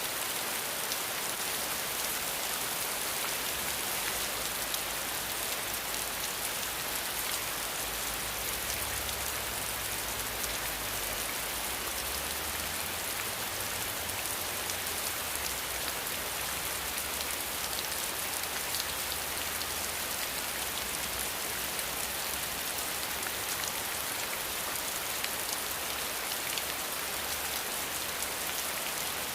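Steady rain falling, an even hiss of the downpour with scattered individual drops ticking through it.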